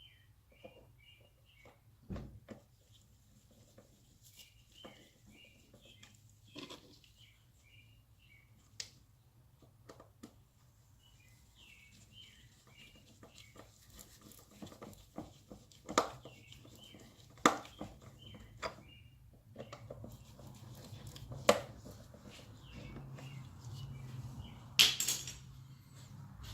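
Scattered sharp clicks and knocks of hand work on car intake parts, the loudest coming in the second half, with a small bird chirping in quick short series throughout.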